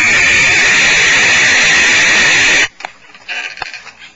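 Barn owl giving a loud, harsh hissing screech that cuts off abruptly about two and a half seconds in, followed by faint scratching and clicks in the nest box.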